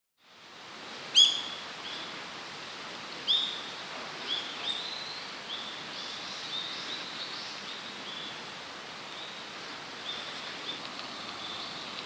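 Wild bird calls over a steady background hiss. A loud, sharp call comes about a second in, a couple more follow, and then a string of short, fainter calls repeats every half second or so.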